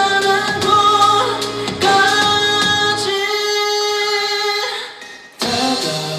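A pop-rock band song with male vocals, sung live. A long held note trails off about five seconds in, and the music drops away for a moment before the band comes back in.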